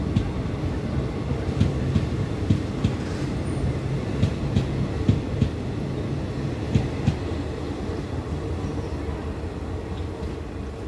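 Passenger train coaches rolling past with a steady low rumble and irregular clacks of the wheels over rail joints. The clacks thin out after about seven seconds as the end of the train goes by.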